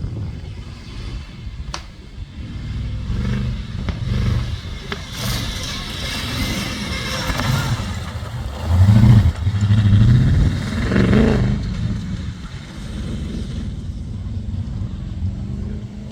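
Off-road competition safari vehicle's engine revving up and down as it is driven hard, with rattling and clatter; the loudest surge comes a little past halfway.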